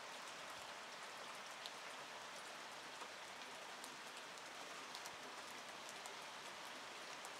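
Faint, steady rain falling, an even hiss with a few sharper drip taps scattered through it.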